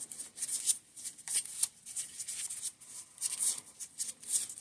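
Irregular light clicks and rattling of small parts and a tool being handled as the damper controls are taken off a RockShox SID suspension fork.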